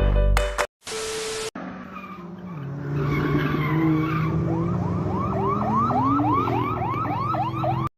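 Car engine running with a steady hum that rises slightly in pitch. Over its second half comes a rapid series of rising whoops, about three a second, like a yelp siren or alarm.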